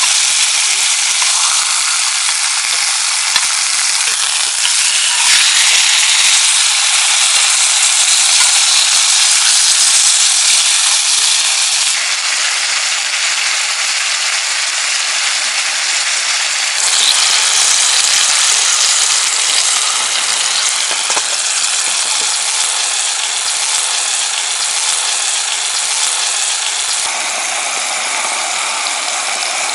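Meat sizzling as it grills over a wood campfire: a loud, dense hiss that shifts abruptly a few times.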